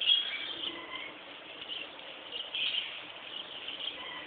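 A small bird chirping repeatedly in short, high-pitched calls, with one louder chirp right at the start.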